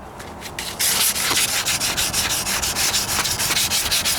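Hand sanding of body filler on a truck's rocker panel with a sanding block: quick back-and-forth rasping strokes, several a second. They start after a short pause, about a second in.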